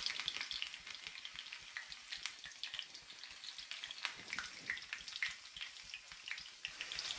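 Damp moong dal deep-frying in hot oil, a steady sizzle with many small irregular crackles and pops as the moisture in the lentils boils off.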